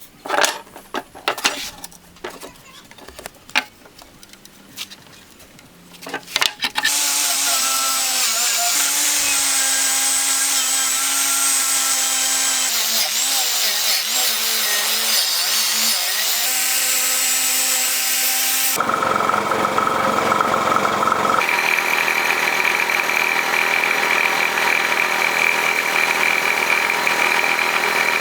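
A few light metal clinks and knocks, then a power tool starts about seven seconds in and runs steadily with a constant whine. Its sound shifts twice in the last third, becoming a higher, hissier whine.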